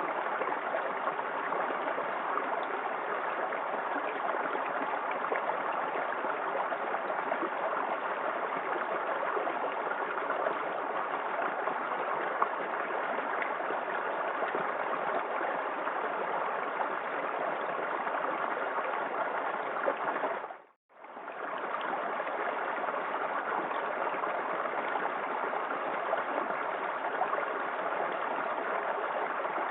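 Small waterfall in a forest creek, water rushing and splashing steadily. About 21 seconds in, the sound briefly fades out and comes straight back.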